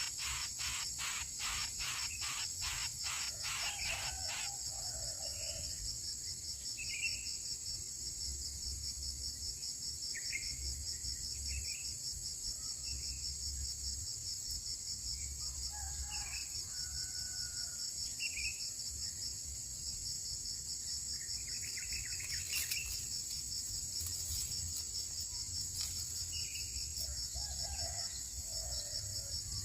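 Steady high-pitched insect chorus, with a quick run of repeated calls at about four a second over the first few seconds and scattered short bird chirps after.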